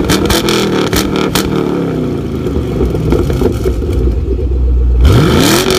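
Car engine revving in an intro sound effect: its pitch sags and climbs, with a sharp rev blip about five seconds in and a few sharp clicks near the start.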